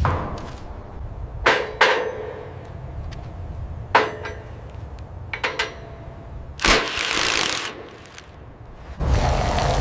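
Renovation work: a series of separate sharp knocks and clangs, a few seconds apart, then a short hissing burst lasting about a second, and a steadier rougher noise starting near the end.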